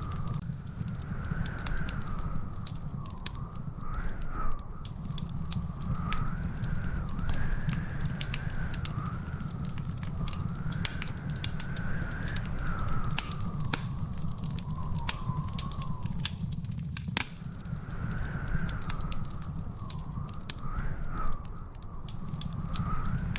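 Log fire crackling in a fireplace: many sharp, irregular pops over a steady low rumble. Through it runs a continuous wavering, whistle-like tone.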